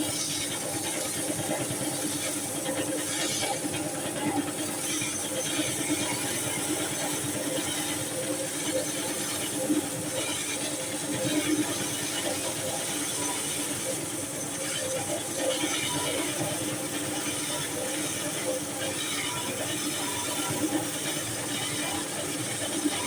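An engine running steadily with a mechanical hiss and rattle over it, its level even throughout.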